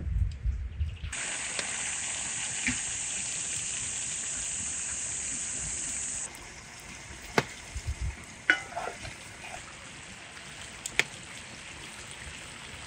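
Beef and mushrooms frying on a hot stone, a loud sizzle that starts suddenly about a second in. About six seconds in it drops to a quieter sizzle with a few sharp clicks.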